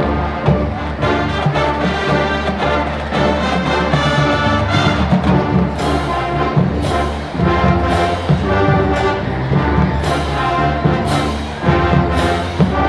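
A high school marching band plays a rock arrangement: full brass holding loud, sustained chords over drums. From about halfway through, sharp accents hit about once a second.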